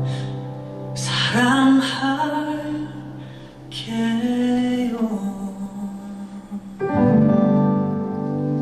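A ballad's closing phrase sung in long held notes over live accompaniment, ending on a sustained final chord from about seven seconds in.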